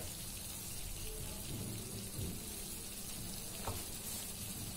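Chicken pieces frying in oil in a wok: a steady soft sizzle, with one faint click near the end.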